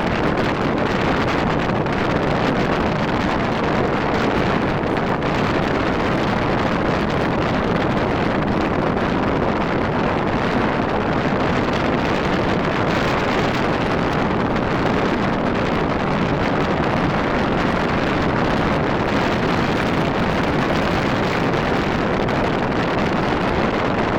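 Steady rush of wind over the microphone of a moving motorcycle, with engine and road noise mixed in underneath.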